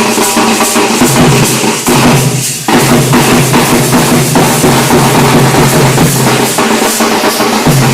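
Dhol drums played in a loud, fast, continuous rhythm of dense strikes, over a steady low tone.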